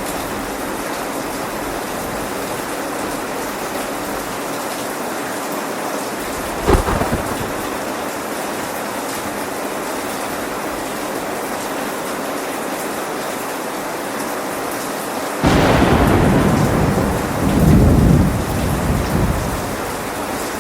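Steady rain with thunder: a short sharp thunder crack about a third of the way in, then a loud rumble of thunder that breaks in suddenly near the end and lasts several seconds before fading back into the rain.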